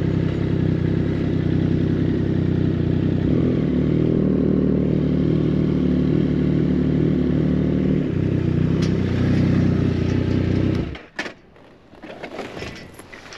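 Triumph Street Triple 765's inline three-cylinder engine, breathing through an aftermarket full exhaust, running steadily at low, even revs, then shut off abruptly about eleven seconds in. A few light clicks and knocks follow near the end.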